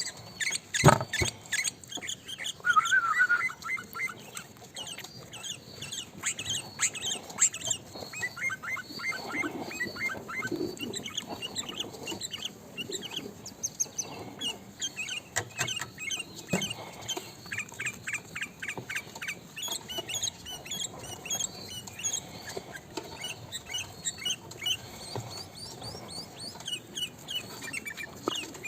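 Sooty-headed bulbul (kutilang) chirping and chattering continuously: quick runs of short, sharp notes with hardly a pause.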